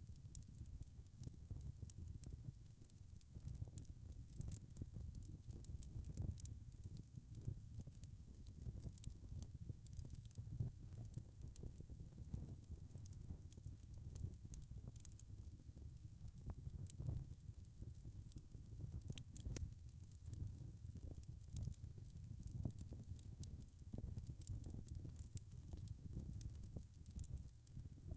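Wood fire crackling: a steady low rumble with many small, irregular pops and snaps.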